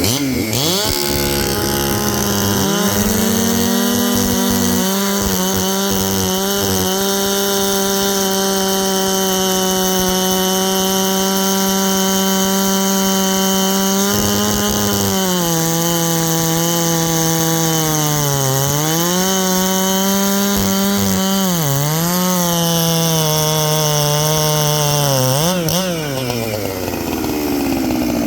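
Two-stroke chainsaw running at full throttle while cutting wood; its engine pitch sags under load several times in the second half and recovers, then drops off near the end as the throttle is released.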